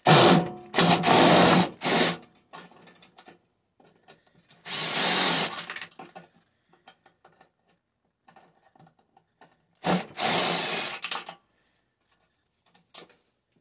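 Power drill running in three short bursts: about two seconds at the start with a brief stop, again near the middle, and again near the end, with light clicks and handling noise between.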